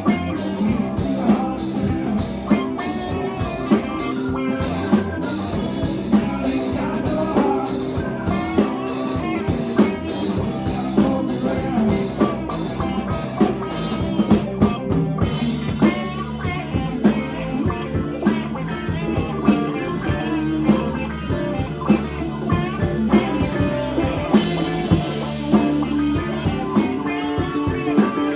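Live band playing: electric guitar over a drum kit keeping a steady beat, the drumming changing pattern about halfway through.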